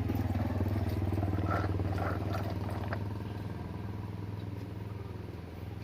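A tractor engine running with a steady low note that fades gradually, as if the tractor is moving away.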